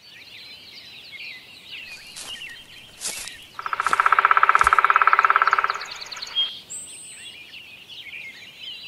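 Forest ambience of many small birds chirping and twittering. Near the middle, a loud, rapid rattle of about fourteen pulses a second lasts about two seconds.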